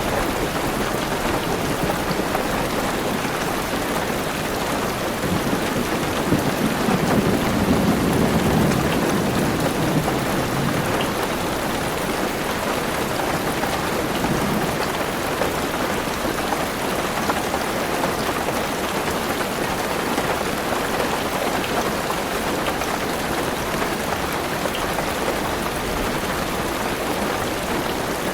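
Heavy rain pattering steadily on a car roof, heard from inside the car. A low rumble of thunder swells about six seconds in and fades by ten seconds, with a fainter rumble a few seconds later.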